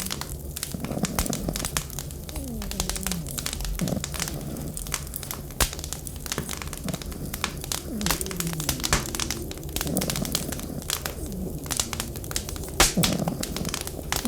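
Wood fire crackling, with frequent sharp pops and snaps over a steady low hum. Low falling tones recur every second or two beneath the crackle.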